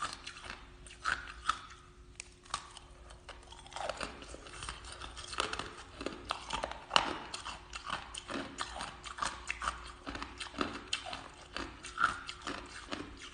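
Ice being bitten and chewed close to the microphone: irregular sharp crunches and cracks, sparser for a couple of seconds early on, then a dense run of crunching from about four seconds in.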